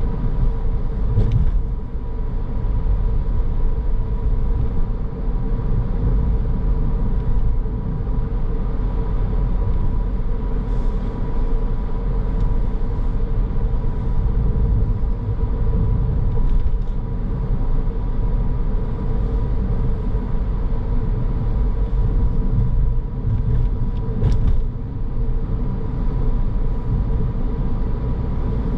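A car driving at a steady pace, heard from inside the cabin: a continuous low rumble of tyres and engine with a faint steady whine. A couple of brief ticks can be heard, one about a second in and one near the end.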